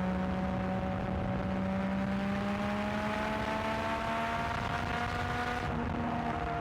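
Yamaha XSR900's three-cylinder engine through an aftermarket exhaust, pulling steadily with its pitch slowly climbing, then easing off near the end as the throttle is rolled back.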